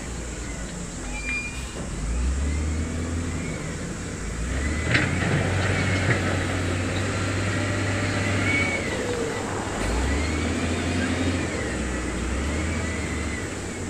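Diesel engine of heavy earthmoving equipment working under shifting load, its pitch rising and falling several times, with repeated high metallic squeals and two sharp knocks about five and six seconds in.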